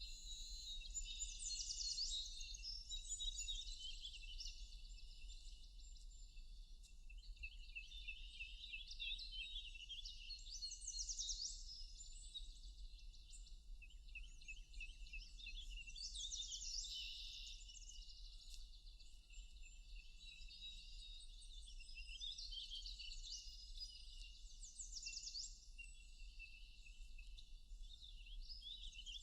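Several songbirds singing over one another in a forest, with quick trills and high sweeping whistled phrases coming in clusters every few seconds. A steady low hum runs underneath.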